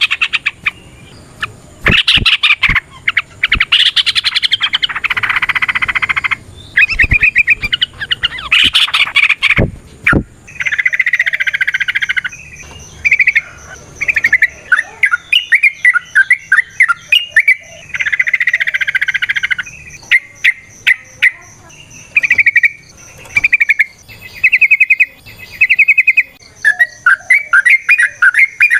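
Yellow-vented bulbul (trucukan) singing: loud bursts of fast, varied chattering phrases, one after another with short gaps.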